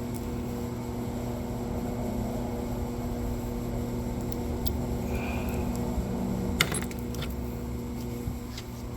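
Steady background hum with a few sharp metallic clinks of loose bolts and tools being handled, the loudest about two-thirds of the way in.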